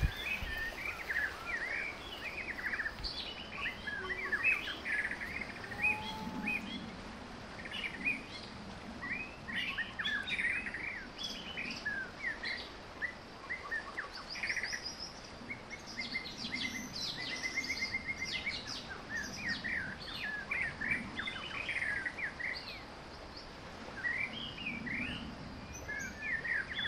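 Small birds chirping and calling, many short high chirps throughout with a few rapid trills about halfway through.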